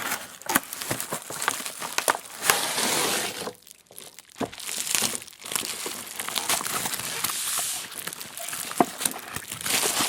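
Plastic toy packaging being crinkled and handled as a toy set is unpacked. The crinkling comes in stretches with small clicks mixed in and a short lull about four seconds in.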